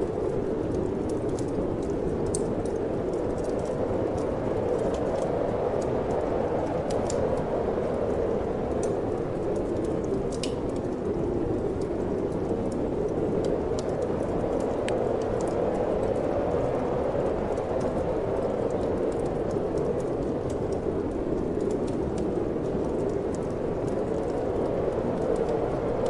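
Steady wind noise with a wood fire crackling over it: scattered small sharp pops and snaps at irregular intervals above a continuous rushing sound.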